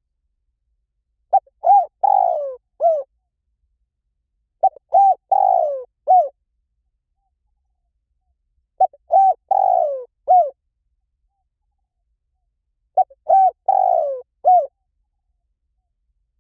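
Spotted dove cooing: four phrases about four seconds apart. Each phrase is a quick run of short coos with a longer, falling coo near its end.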